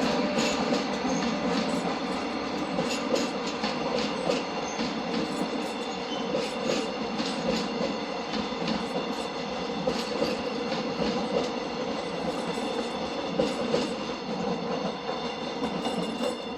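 Korail Mugunghwa-ho passenger train passing slowly, a steady rail rumble with many irregular wheel clicks over the rail joints and thin high squeal tones from the wheels.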